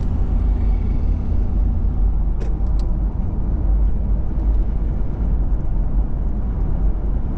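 Steady low rumble of a car on the move, road and engine noise heard from inside the cabin, with two brief ticks about two and a half seconds in.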